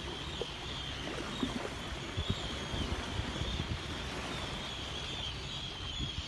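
Many seabirds calling over and over, short wavering cries, over a steady low wash of wind and water noise.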